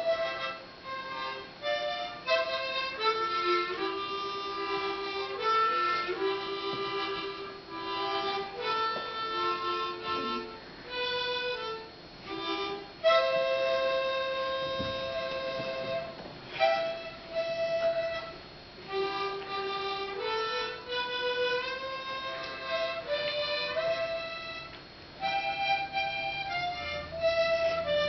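Harmonica played solo: a melody of held notes with chords sounding under it, including one long held chord about halfway through.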